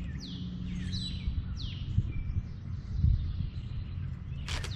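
A songbird singing a quick series of falling whistles, about four in the first two seconds and fainter after, over a steady low rumble with a couple of soft thumps.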